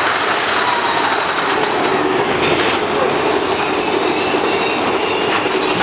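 Mine-train roller coaster cars running along their track: a steady loud rumble and rattle of steel wheels on rail, with high wheel squeal that grows stronger about three seconds in.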